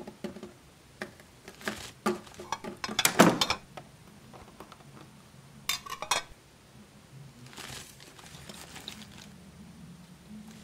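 Small plastic clicks and light knocks of a miniature cup and toys handled on a tabletop, the loudest about three seconds in, with another pair of clicks near the middle. A soft rustle of paper comes about three-quarters of the way through.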